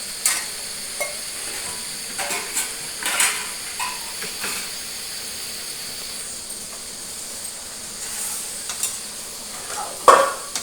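Chicken frying in a pan with a steady sizzle, while a spoon stirs and scrapes against the metal pan in short, irregular clatters, the loudest near the end.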